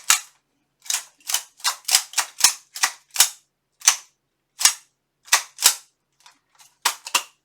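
Articulated steel gauntlet plates clicking and clacking against each other as the hand and fingers flex: a quick, irregular run of sharp metallic clicks, two or three a second, with a short pause near the end.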